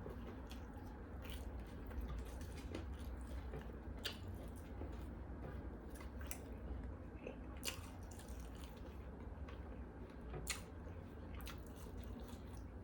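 Chewing a BLT sandwich: soft wet mouth sounds with many short, sharp clicks scattered through, over a low steady hum.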